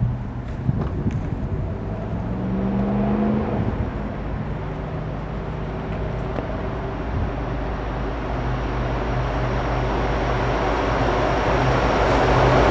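Diesel locomotive engine running as the train approaches, a steady low hum growing louder.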